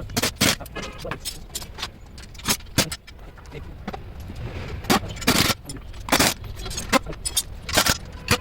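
Irregular clinks and clatter, like metal tools or parts being handled, over a low steady rumble, with the loudest clanks in the second half.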